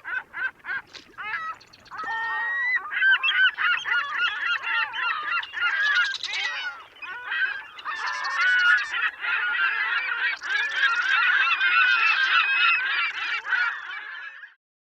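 A flock of birds calling together, many pitched calls overlapping. A few separate calls come first, then a dense chorus builds about two seconds in, which cuts off suddenly near the end.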